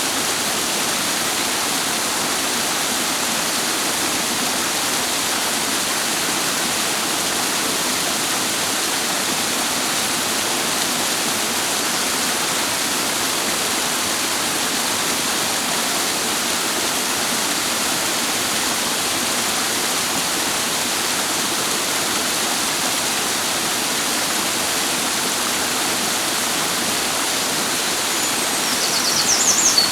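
Clear mountain water rushing over rocks in a steady, even rush. A small bird gives a quick high trill near the end.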